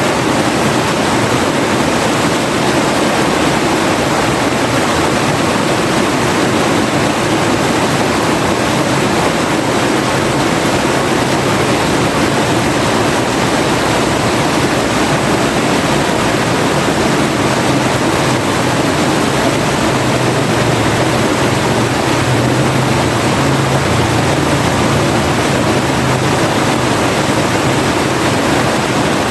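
Forest river flowing: a steady, dense rush of water without pauses, with a deeper low rumble growing a little stronger in the second half.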